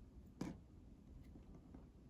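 Slime being handled, heard faintly: a single short click-like sound about half a second in, then near quiet.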